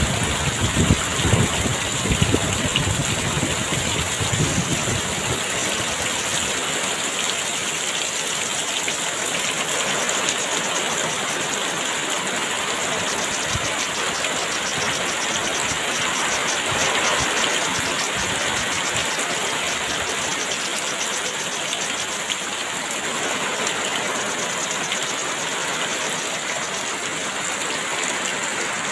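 Heavy rain pouring steadily, with low gusts of wind buffeting in the first few seconds before the rain settles into an even downpour.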